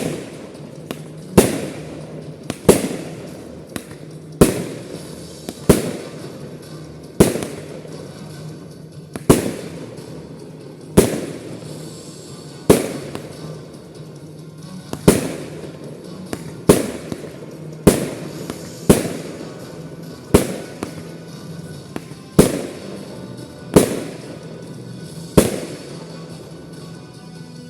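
Aerial firework shells bursting in a steady series of loud bangs, about one every one to two seconds, each bang trailing off in an echo.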